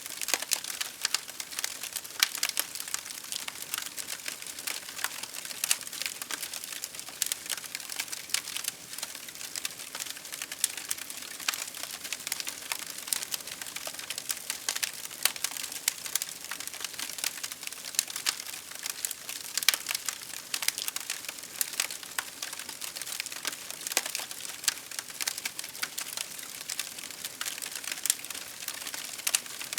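Wood fire crackling: dense, irregular sharp pops and snaps over a steady soft hiss of burning.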